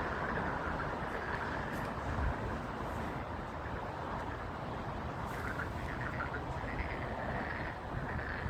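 A chorus of frogs calling as a dense, steady din, with wind rumbling on the microphone underneath.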